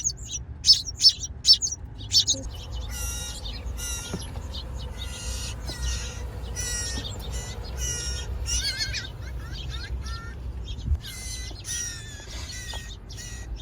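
Baby songbirds chirping over and over in quick, high, short calls, over a steady low rumble.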